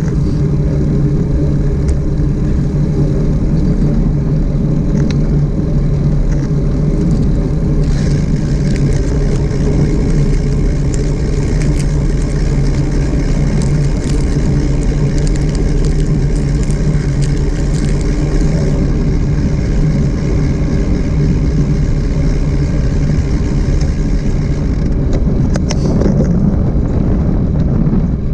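Motorcycle riding at a steady speed, its engine running evenly under wind and road noise.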